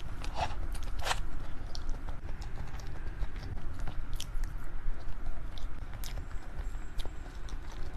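A person chewing and biting dessert close to the microphone, heard as scattered short clicks over a low steady hum.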